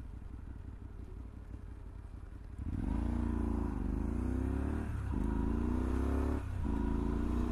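Honda Varadero 125's V-twin engine running at low revs. About three seconds in the throttle opens and it pulls away, its pitch climbing through the gears with two short breaks at the gear changes.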